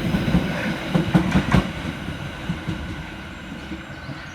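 Merseyrail Class 777 electric train pulling away, its wheels clicking rhythmically over the track for the first second and a half, then the running sound fading as it draws off.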